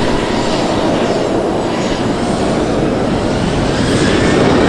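Embraer 190 airliner's twin GE CF34-10E turbofans running as the jet passes, a loud steady rush with a faint high whine, growing slightly louder near the end.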